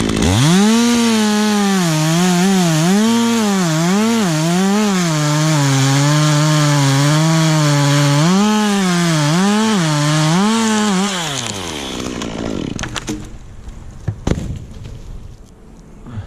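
Two-stroke chainsaw running at high revs and cutting pine wood, its pitch dipping and recovering again and again as the chain bogs under load. About eleven seconds in, the throttle is released and the engine winds down, followed by a few sharp knocks.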